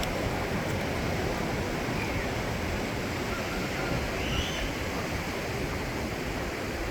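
Steady outdoor rushing noise, even and unbroken, with a faint brief high chirp about two seconds in and another about four and a half seconds in.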